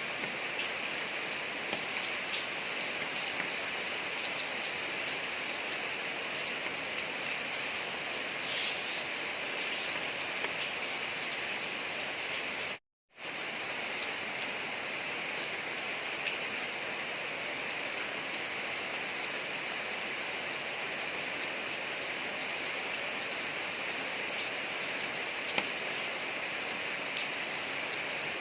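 Steady rain falling on a street, an even hiss with scattered drop ticks. The sound cuts out completely for about half a second some thirteen seconds in, then resumes unchanged.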